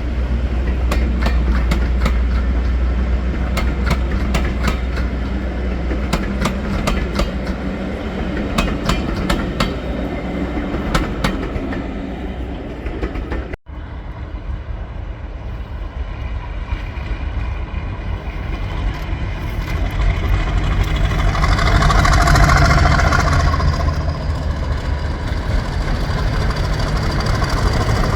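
Diesel locomotive and train running on the line, the engine drone under a rapid run of clicks from wheels over rail joints. After a sudden cut just under halfway, the engine sound swells to its loudest about three-quarters through.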